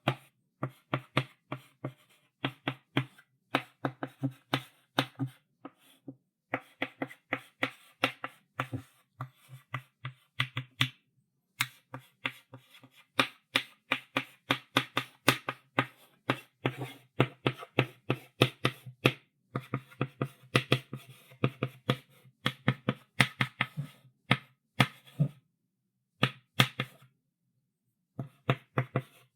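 Chalk writing on a blackboard: quick runs of sharp taps and short strokes as the chalk strikes and drags across the board, in bursts broken by brief pauses.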